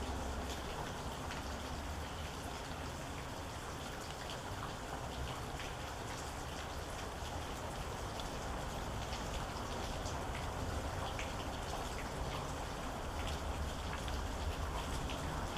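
Steady rain with many separate drops ticking on a hard surface, over a low, even rumble.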